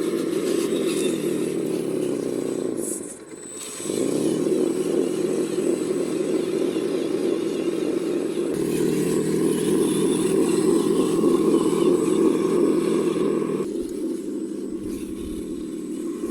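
Radio-controlled construction models running: a steady electric motor and gear whine that cuts out briefly about three seconds in, then comes back and shifts pitch twice.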